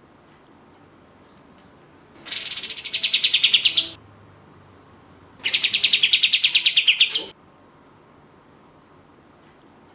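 Kapas tembak (pied triller) singing two long, rapid trills, each lasting under two seconds, a fast run of sharp repeated notes that starts higher and drops to a steady lower pitch. The first comes about two seconds in and the second about a second after it ends.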